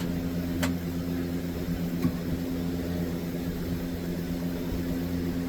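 Steady low machine hum with a few even tones, with a sharp click about half a second in and a small knock about two seconds in.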